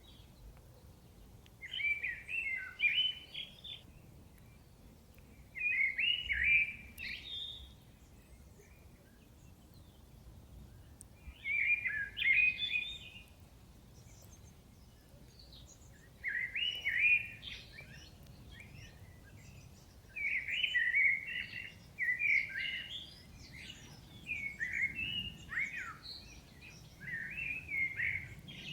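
Thrush singing a series of short warbled phrases, about eight in all, with pauses between them that shorten near the end, over faint steady background noise.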